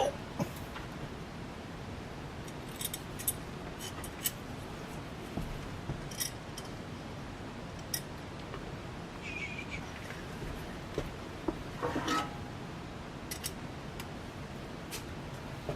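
Scattered small metallic clicks and clinks as the parts and bolts of a ceiling fan being taken apart are handled, over a faint steady hiss; a short cluster of louder clinks comes about twelve seconds in.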